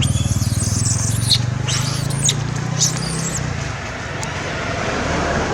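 A baby monkey giving several short, high-pitched squeaks, most of them in the first three seconds. Under them runs a steady low hum that fades out about three seconds in.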